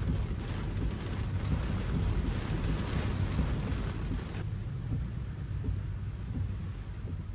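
Heavy rain hissing on a car's roof and windshield, heard from inside the cabin over a steady low road rumble. The rain hiss drops off sharply about four seconds in.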